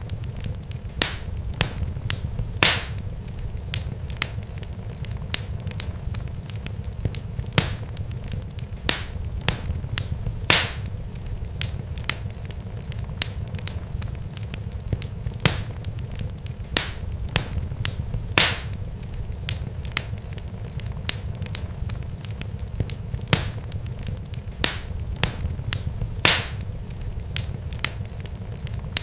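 Irregular sharp crackles and pops, many small ones and a loud one every few seconds, over a steady low rumble.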